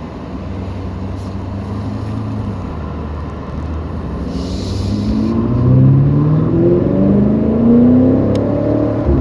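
BMW M5 Competition's twin-turbo V8 accelerating hard, its note getting louder and climbing in pitch from about halfway in, with a brief thump near the end.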